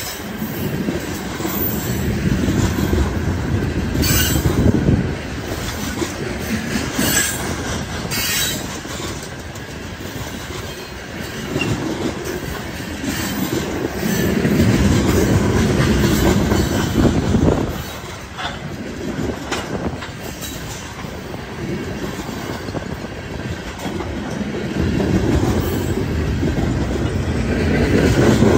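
Freight train of ethanol tank cars rolling past close by, steel wheels rumbling and clattering on the rails. The rumble swells and eases as the cars go by, with a few sharp, high metallic bursts in the first nine seconds.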